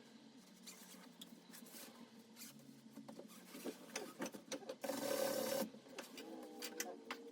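Upholstery work at the bench: material being handled, with scattered clicks and scratching and a short hiss about five seconds in.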